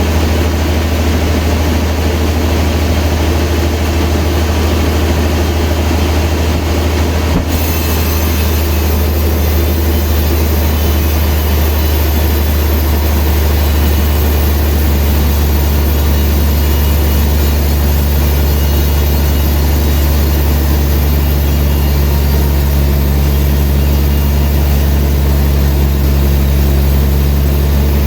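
Sawmill machinery running with a loud, steady low hum. About halfway through, further steady tones join in.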